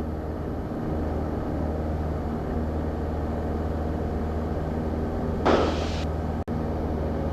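Light aircraft piston engine of a Piper Tri-Pacer droning steadily on the approach for landing, heard through the cockpit intercom, with a brief hiss about five and a half seconds in.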